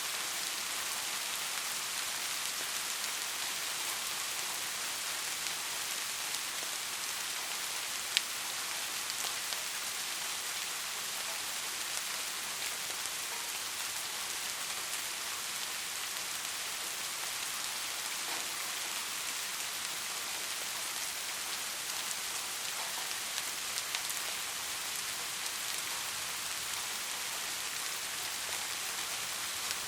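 Steady rain falling, an even hiss of many drops with scattered individual drop ticks, and one sharper drop click about eight seconds in.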